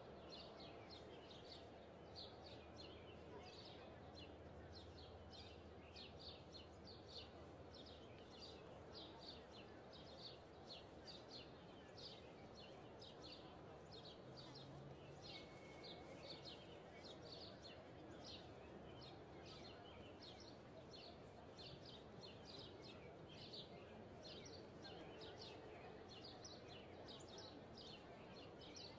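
Faint birdsong: a steady run of short, high chirps, a couple each second, over a soft, even background noise.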